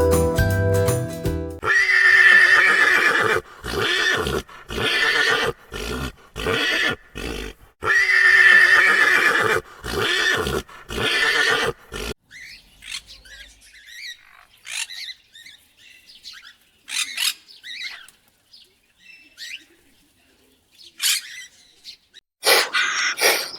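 A moment of jingly music, then a horse whinnying twice, each a long high call followed by a run of shorter calls. After that come faint, scattered short chirps.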